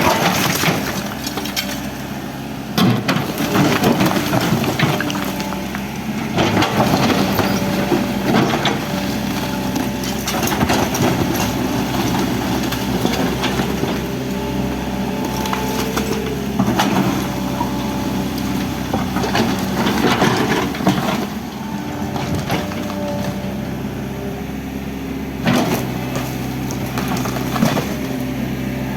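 Excavator's diesel engine running steadily while it tears down a building, with repeated crunching, cracking and splintering of wood and debris and a sharp crash every few seconds.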